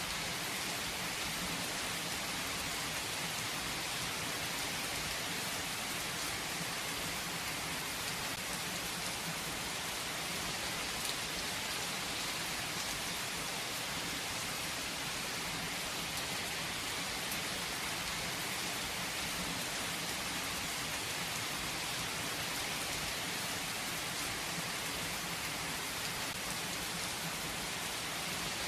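Steady rain falling on a surface, an even hiss of many drops with the odd sharper drop tick.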